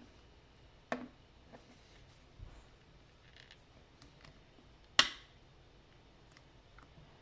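Plastic clicks from a LEGO WeDo 2.0 hub's battery cover being handled: a click about a second in, light ticks, and one sharp, loud snap about five seconds in.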